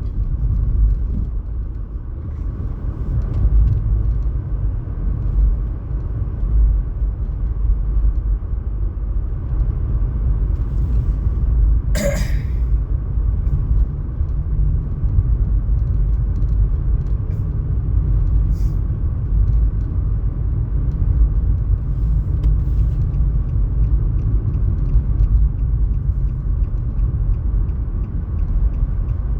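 A steady low rumble, with one brief sharp squeak about twelve seconds in.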